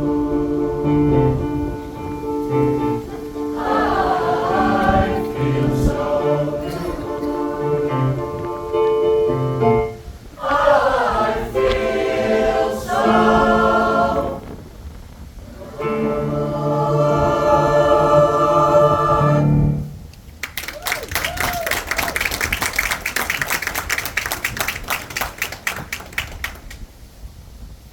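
A choir singing in close harmony, ending on a long held chord about twenty seconds in, followed by audience applause that dies away near the end.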